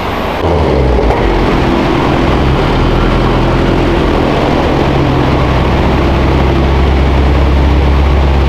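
Car engine running at a steady idle, low and loud, coming on about half a second in.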